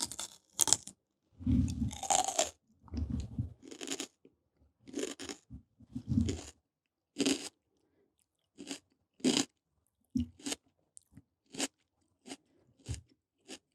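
Raw red pepper crunched and chewed close to the microphone: irregular crisp crunches, densest in the first four seconds, then sparser single crunches.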